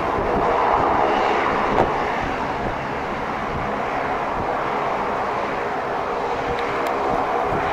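Jet airliner engines running: a steady, loud rush of noise with a faint whine in it, swelling slightly about a second in. A brief click sounds partway through.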